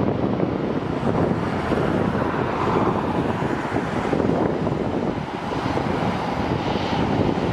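Wind buffeting the microphone over the steady rumble of jet airliner engines, with a faint high engine whine near the end.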